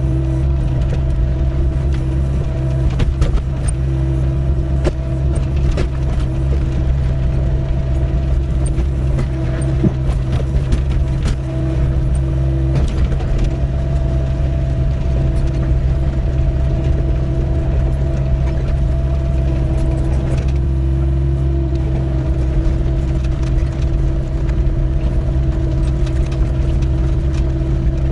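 Doosan 55W wheeled excavator's diesel engine running steadily under load, with scattered knocks and scrapes as the bucket digs a trench through rocky ground.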